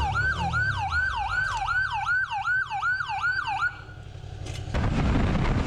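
Police siren sounding in fast repeated sweeps, each falling in pitch, about three a second, which stops a little before four seconds in. About a second later a loud wind rush on the microphone takes over.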